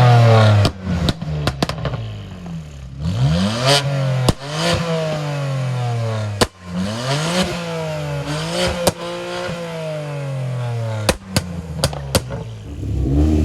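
Car engine revving, its pitch climbing and dropping several times as the throttle is worked, with several sharp cracks along the way.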